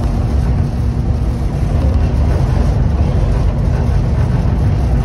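Steady low rumble of a passenger train in motion, with a constant low hum running under it.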